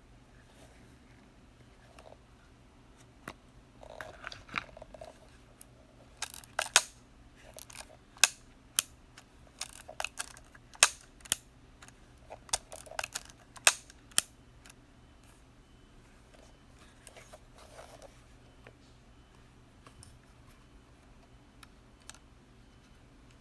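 Minolta AL film camera being worked by hand: a run of sharp mechanical clicks from about six to fourteen seconds in, with softer handling rustles before and after.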